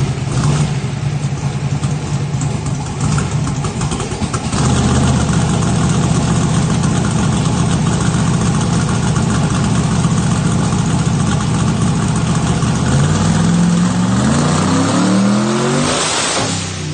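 557-cubic-inch twin-turbo big-block Ford V8 on 80 mm turbos at 8.5 psi boost, running lumpy, then louder and steady from about four and a half seconds in. Near the end its pitch climbs in several quick rising steps, ending in a short burst of hiss.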